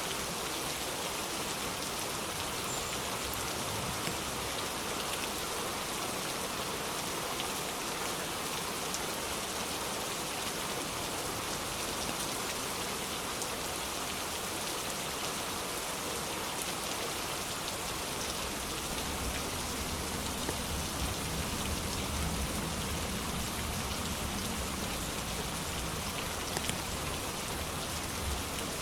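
Steady rain falling, a dense even hiss of many drops hitting a surface, with a low rumble swelling in the second half.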